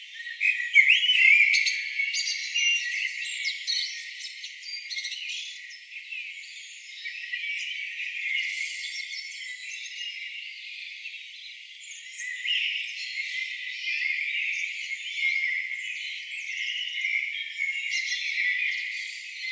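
Songbirds singing in a chorus, many overlapping chirps, whistles and trills with no break. The recording holds only high sounds, with nothing low beneath the birds.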